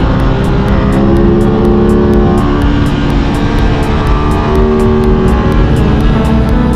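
Aprilia RS 660's parallel-twin engine running under way, its note dipping and then climbing and holding as the revs change.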